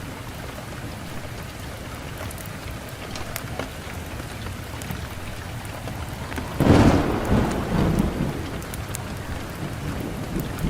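Wood fire in a fireplace hissing steadily with scattered crackles and pops. About two-thirds of the way through, a sudden loud burst with a low rumble that dies away over a couple of seconds.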